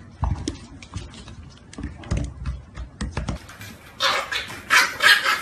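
Plastic basins knocking and bumping on a tile floor under wriggling puppies, a run of light thumps and clicks, then two louder rasping rushes about four and five seconds in.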